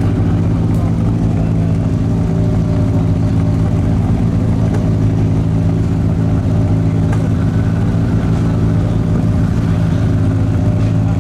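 Rally car engine idling steadily at a constant pitch.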